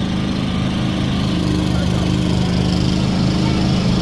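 A small engine running steadily at a constant speed, its pitch stepping slightly about a second in.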